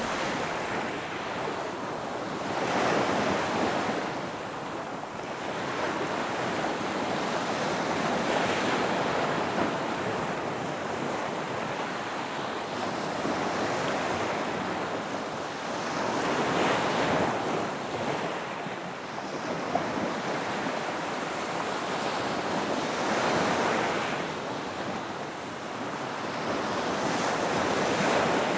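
Ocean waves breaking on a beach: a continuous wash of surf that swells as each wave breaks, about every five to nine seconds, with some wind on the microphone.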